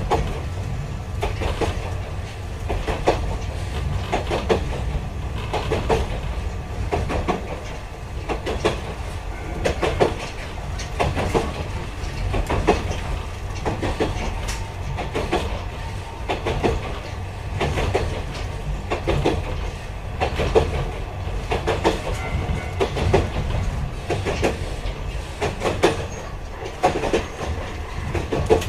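Yokkaichi Asunaro Railway narrow-gauge electric train running along the line, heard from the floor inside the car: a steady low rumble with the wheels clicking over rail joints about every second or so.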